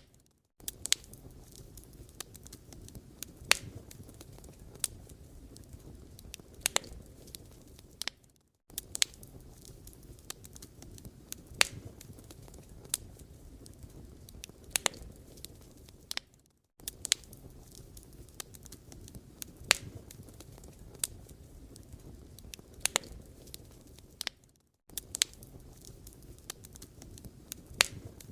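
Wood fire burning, with sharp crackles and pops at irregular intervals over a low, steady rush. The sound cuts out briefly three times, about eight seconds apart.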